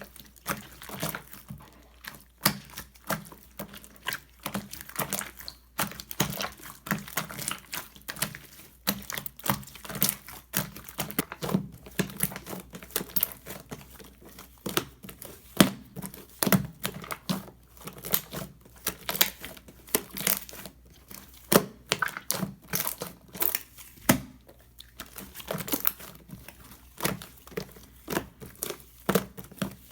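Slime being kneaded and stretched by hand as soft clay is mixed into it, giving a steady stream of irregular sticky crackles, clicks and small pops.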